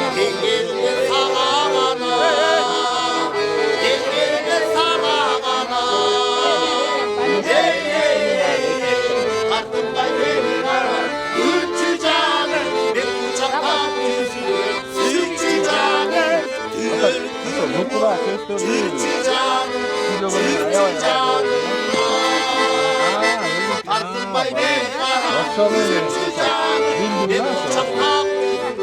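Accordion music in a traditional folk style: held chords under a moving melody, with voices over it.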